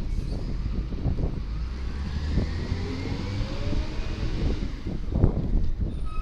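Volvo garbage truck running, its engine rumbling steadily, with a rising whine partway through and several clunks, the loudest about five seconds in.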